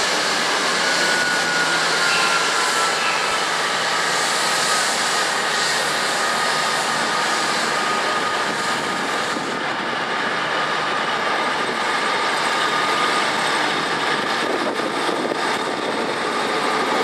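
Train running, heard as a steady rushing noise with a thin high whine through it that dips slightly in pitch in the first few seconds and then holds.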